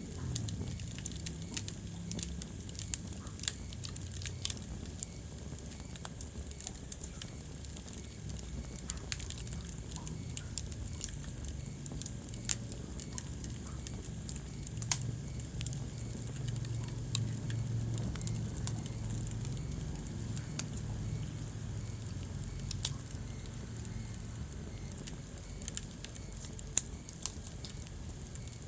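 Wood fire in a fireplace crackling: irregular sharp pops and snaps scattered over a low steady rumble.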